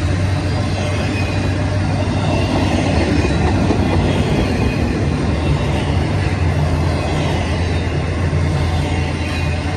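Freight train rolling past: a steady low drone from its diesel locomotives under the continuous noise of steel wheels on rail.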